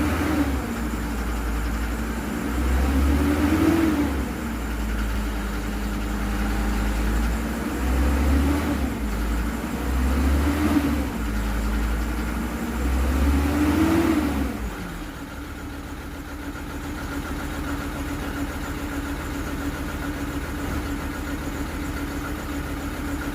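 Car engine running, revved up briefly about four times and then settling to a steady idle.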